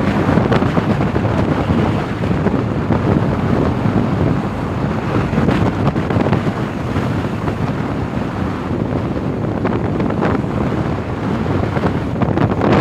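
Steady wind rumble buffeting the microphone aboard a moving boat, mixed with the rush of water.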